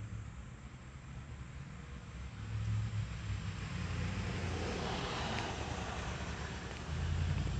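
A road vehicle passing by: a low engine rumble and tyre hiss that swell about halfway through and fade, followed by another low engine hum near the end.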